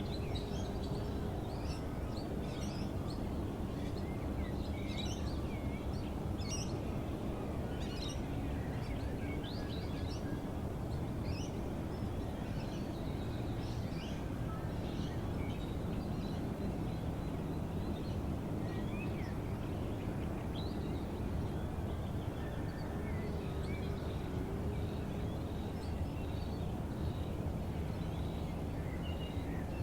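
A morning wetland chorus of many birds, with short chirps and calls coming thick and fast throughout. Underneath runs a steady low background rumble.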